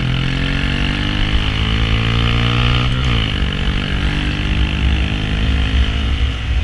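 Honda Grom's small single-cylinder engine accelerating, its pitch climbing, dropping sharply at a gear change about three seconds in, then climbing again, with wind rumbling on the microphone.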